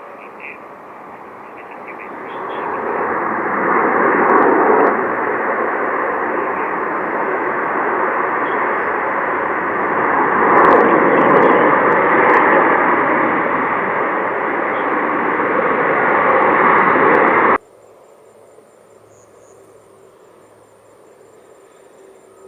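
Jet airliner engine noise as a plane passes: it swells over a couple of seconds, holds loud and steady, then cuts off suddenly about three-quarters of the way through. Only a faint, steady, high-pitched tone is left after the cut.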